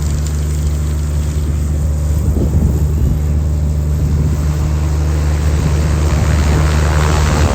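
Piston aircraft engine and propeller running with a steady, unchanging low drone.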